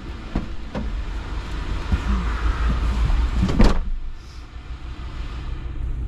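Low steady rumble of a van idling, with a few short knocks and one loud rush of noise about three and a half seconds in.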